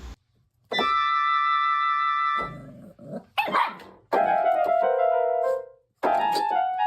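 Keyboard playing held notes and a short phrase that steps down in pitch, with a dog barking in the gaps between the notes.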